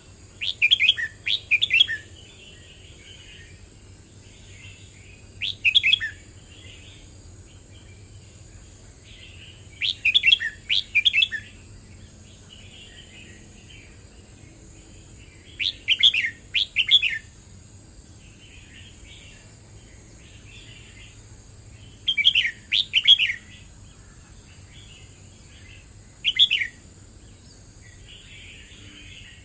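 Red-whiskered bulbul singing: six short, loud phrases of quick notes, about one every five seconds, with softer chirping in between.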